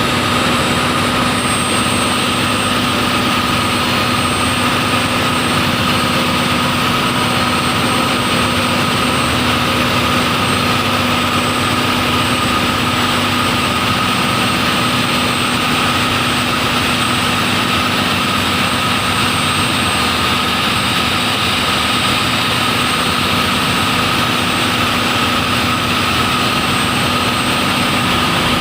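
Sabuk Nusantara 101's marine diesel engine running steadily: a loud, even drone with a constant low hum and a higher steady whine.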